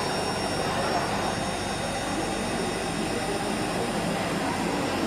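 Automatic CNC drilling machine for aluminium locks and hinges running with a continuous, even whir and a thin high whine.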